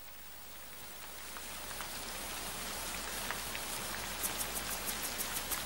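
Rain falling, fading in and slowly growing louder; from about two-thirds of the way in, distinct drop ticks come several times a second.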